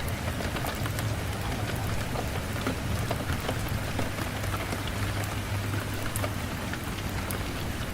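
Steady rain falling, with scattered sharp crackles of a wood fire and a low steady rumble underneath.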